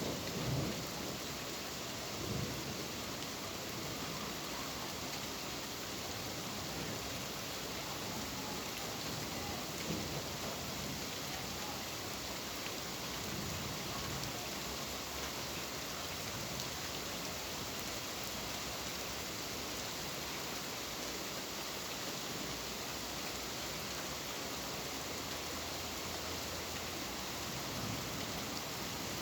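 Steady rain falling, an even hiss with no letup. A few low rumbles of thunder come in the first ten seconds or so.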